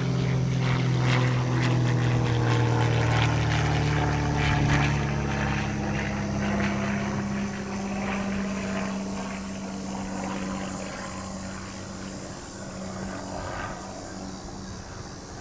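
Propeller aircraft engine droning steadily, loudest at first and then fading away as it passes and recedes.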